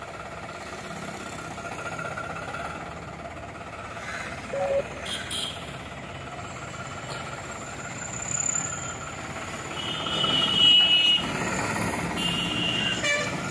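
New Holland 3600 tractor's diesel engine running steadily.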